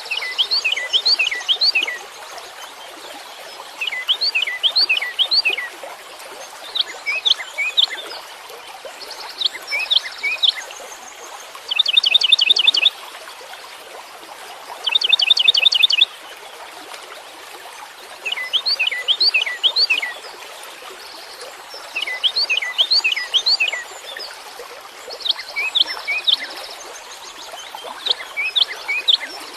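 A songbird singing in short phrases of quick, falling whistled notes, repeated every few seconds, with two phrases of a fast, even trill in the middle. A steady hiss runs underneath.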